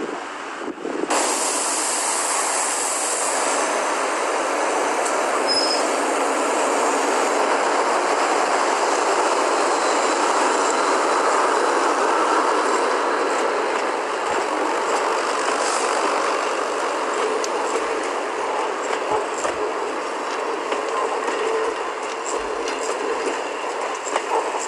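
A long train of passenger coaches rolling past, a steady rumble of wheels on rails with faint clicks over the rail joints, starting abruptly about a second in.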